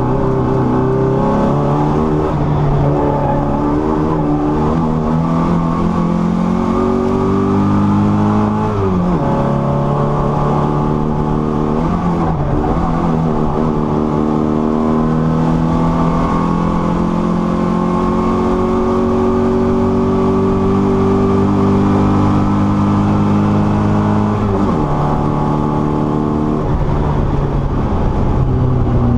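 1978 Leyland Mini's 1293cc A-series four-cylinder engine pulling hard at speed, heard from inside the car: the revs climb steadily in each gear and drop sharply at the upshifts, clearly twice and with one shorter dip between.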